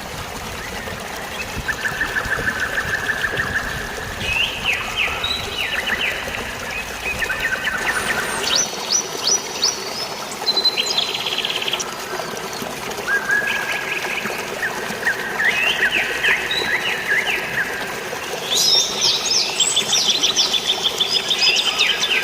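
Songbirds singing in rapid repeated trills and chirps, phrase after phrase, over a steady rush of flowing water. The low rumble in the water noise drops away about a third of the way through.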